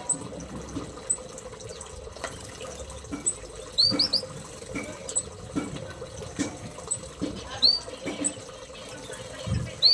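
Small aviary birds chirping: short, high chirps every second or so, a few in quick pairs, over a steady background hiss and hum.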